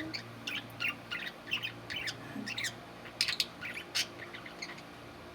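Pet budgerigars chirping in quick, short calls that come thick and fast, then die out near the end.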